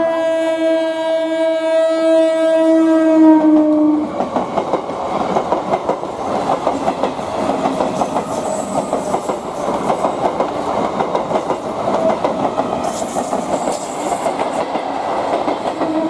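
Electric multiple-unit suburban local train sounding one long, steady horn blast that ends about four seconds in. Then the train runs past close by, its wheels clattering rhythmically on the track.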